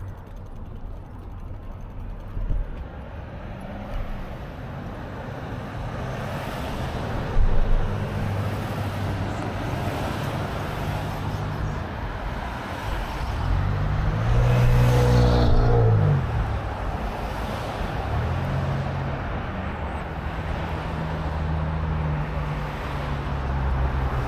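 Road traffic drone with a steady low hum. About two-thirds of the way in, a motor vehicle passes close by, and its engine note swells and then falls away.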